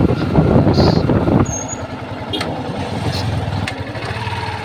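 Motorcycle riding on the road, with loud wind-like noise over the microphone for about the first second and a half. The noise then drops off sharply, leaving a quieter, steady engine sound.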